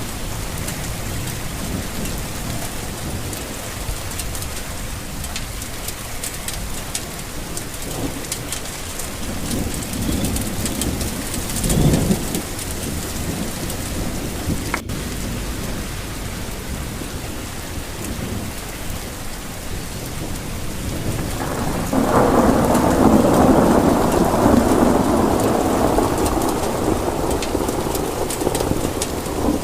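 Steady rain falling, with thunder: a short low rumble about twelve seconds in, then a longer, louder roll of thunder starting about two-thirds of the way through.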